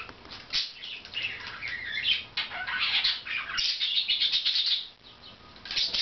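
Small pet birds chirping and chattering in a fast, busy run of short high chirps, with a brief lull about five seconds in.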